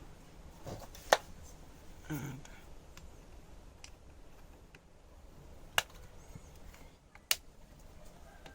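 Sharp plastic clicks and handling noise from a netbook's plastic case being pried and forced open, three sharp clicks standing out; a screw still in place holds the case shut.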